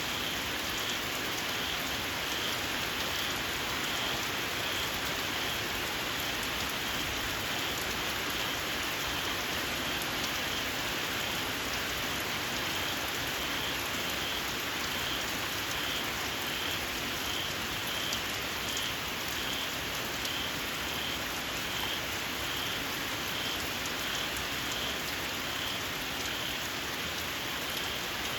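Steady rain falling, with a small frog calling in a regular train of short, high squeaks about every half second.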